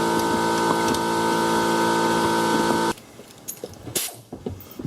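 Pneumatic air tool running with a steady whine, cutting off suddenly about three seconds in, followed by light clicks and knocks of the tool being handled on the engine.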